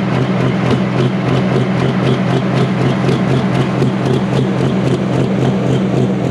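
Loud, steady engine of a pulling tractor, holding one constant pitch without revving up or down.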